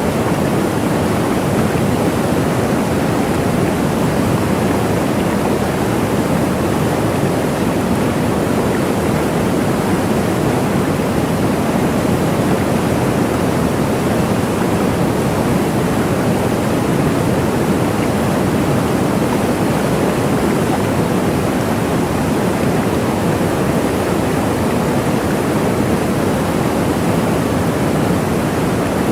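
A waterfall making a steady, even rush of falling water, with no changes or separate events.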